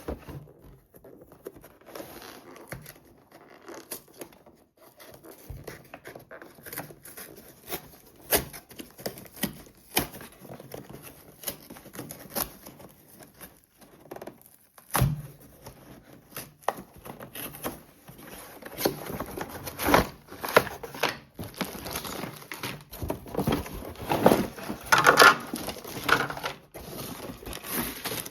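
Toy packaging being opened and handled by hand: irregular rustling, crinkling and tearing with many small clicks and knocks. There is one sharp knock about halfway through, and the rustling is busiest near the end.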